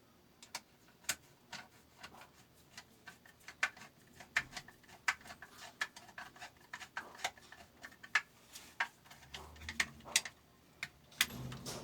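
Irregular small clicks and taps, about two to three a second, as parts of a fabric cutting machine's sharpener are handled and worked on, with a brief low hum near the end.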